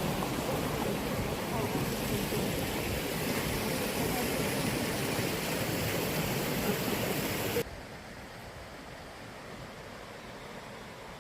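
Mountain valley stream running, a steady rush of water. About seven and a half seconds in it cuts off abruptly to a fainter, duller hiss.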